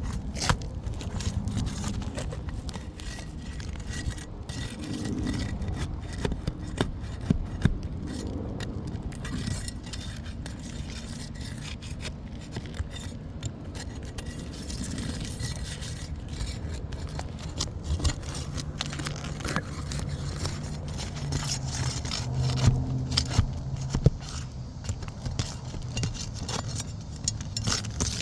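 Scraping and irregular sharp clicks of a tool working under asphalt roof shingles to free a damaged shingle for removal, over a steady low rumble. A low steady hum joins in from about 18 s to 24 s.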